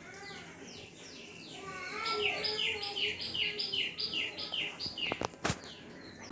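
A bird singing a quick run of repeated downward-sliding chirps, about four a second, louder in the middle of the run. A few sharp clicks follow near the end.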